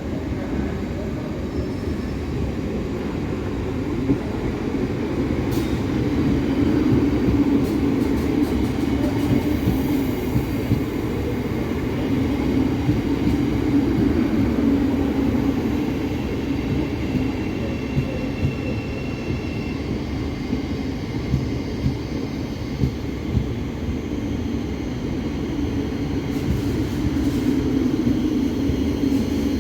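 Passenger train running in the station: a steady low rumble that swells and eases several times, with a few short sharp clicks.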